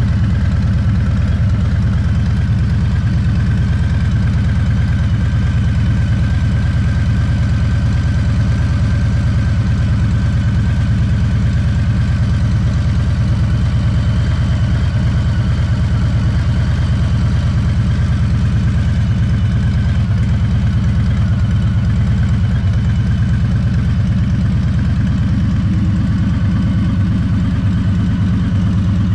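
2020 Harley-Davidson Fat Boy's Milwaukee-Eight 114 V-twin idling steadily through a Two Brothers Racing 2-into-1 Shorty Turnout exhaust, warming up after a cold start.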